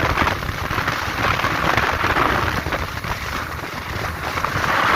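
Steady rush of wind and rain on the microphone of a motorcycle ridden at speed in the rain.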